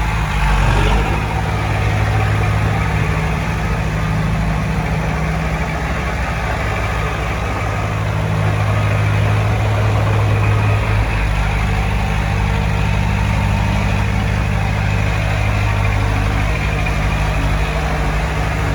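Heavy diesel engine of earthmoving equipment running, a steady low sound that grows louder for a few seconds around the middle.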